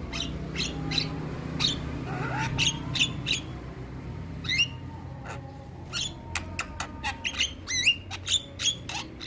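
Javan myna (jalak kebo) calling in a quick series of sharp, short chattering notes and upward-sweeping whistles. The calls come faster in the second half, over a low steady hum.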